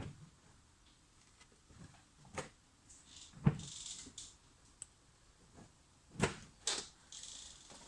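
Scattered knocks and clunks with two short hissing scrapes, with no engine running.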